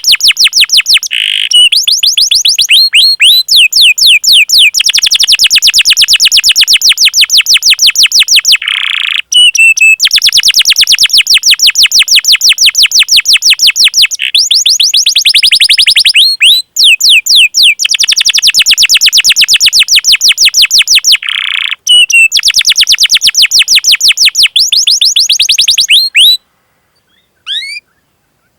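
Domestic canary singing long, fast rolls of rapidly repeated high notes, broken by brief pauses. The song stops near the end, leaving a few faint chirps.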